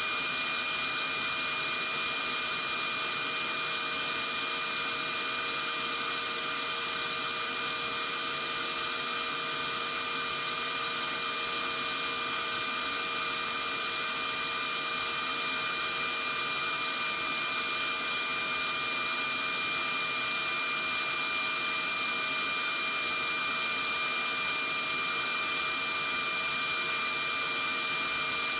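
Vacuum cleaner running continuously with a steady high-pitched motor whine over a constant rushing hiss, played as white noise to soothe a baby to sleep.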